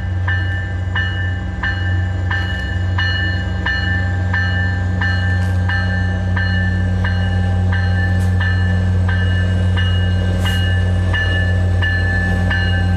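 Railroad crossing bell dinging about three times a second while the signal lights flash, over the steady low rumble of an arriving commuter rail train.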